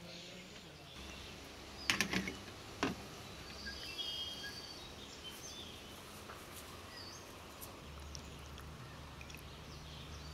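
Quiet outdoor ambience with birds chirping off and on, and a few sharp knocks about two and three seconds in.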